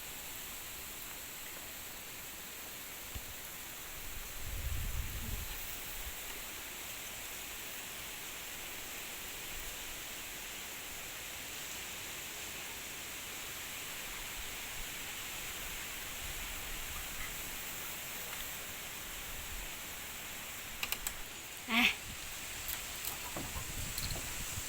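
Wind rustling through coconut palm fronds: a steady hiss, with a low gust rumble on the microphone about four seconds in. Near the end a short, sharp animal call cuts through.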